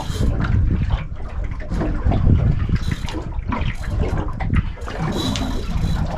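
Water splashing and sloshing at the side of a small fishing boat, with irregular splashes and knocks over a steady low rumble.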